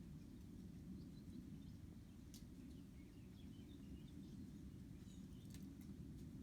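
Quiet outdoor ambience: a steady low rumble with faint, scattered bird chirps and two sharp ticks, one a little over two seconds in and one near the end.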